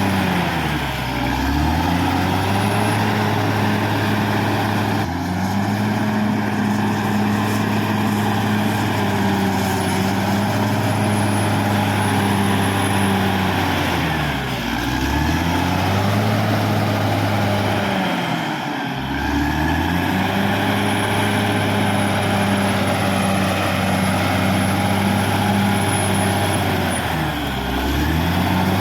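Caterpillar D6R XL bulldozer's diesel engine running hard and steady, its pitch dipping and climbing back four times as the revs drop and recover, with a faint high whine that follows the revs.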